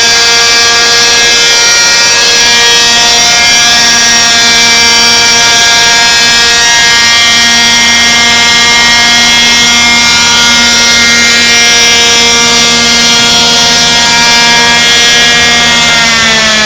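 Radio-controlled T-Rex 600 helicopter's Zenoah 27cc two-stroke gas engine with an RJX tuned exhaust, running steadily at hover speed. It is very loud. Its pitch drops right at the end.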